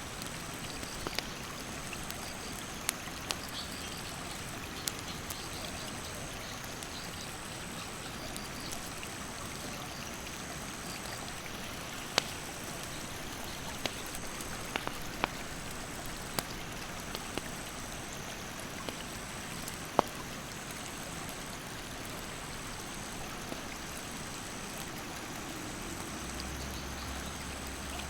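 A stream rushing steadily, with a wood campfire crackling over it in scattered sharp pops. A high insect chirp repeats evenly about every second and a quarter.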